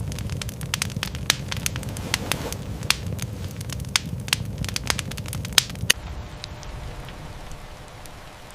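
Wood fire crackling in a hearth: irregular sharp pops and snaps over a low rumble. About six seconds in it cuts off, leaving a quieter, steady hiss of rain.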